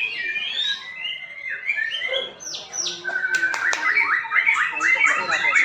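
White-rumped shama song: varied whistled phrases, then from about three seconds in a fast run of repeated notes about five a second, with a few sharp clicks just as it begins.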